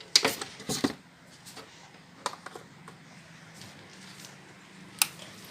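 Hard plastic washing machine parts being handled: scattered sharp clicks and knocks, several in the first second, two more around two seconds in and a single one near the end.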